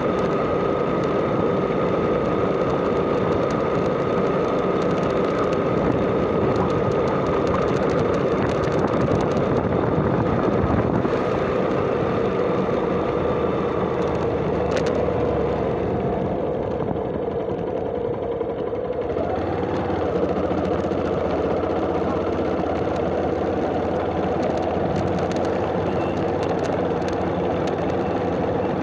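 Motorcycle engine running steadily while riding, with a high steady whine that fades out about halfway through and a slight change in the engine note about two-thirds of the way in.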